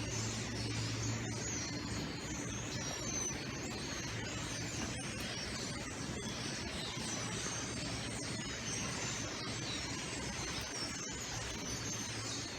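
A large flock of European starlings chattering in a barn: a dense mass of squeaks, chirps and short whistles, over a steady low hum.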